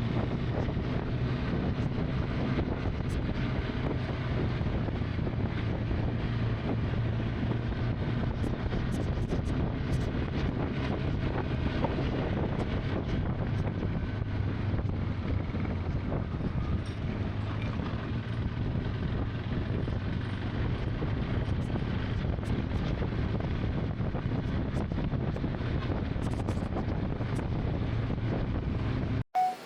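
Motorcycle engine running steadily while riding, mixed with wind rushing over the microphone. It cuts off abruptly near the end.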